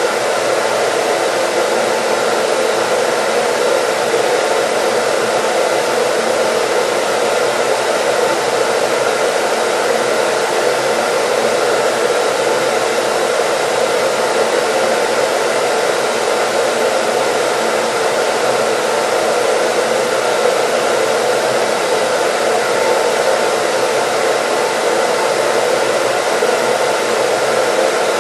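Hair dryer running steadily: an even, unbroken blowing hiss with a faint motor hum in it.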